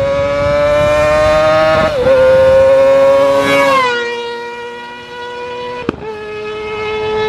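Kawasaki ZX-25R's 250 cc inline-four through a long carbon Akrapovic silencer, running at very high revs as it speeds past. The pitch climbs, dips briefly about two seconds in (a gear change), then drops near four seconds and fades as it goes by. A sharp click comes near six seconds, then the engine note builds again toward the end.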